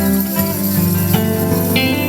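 Live band playing an instrumental passage: acoustic guitar with held melody notes over a steady bass line, in a flamenco-tinged style.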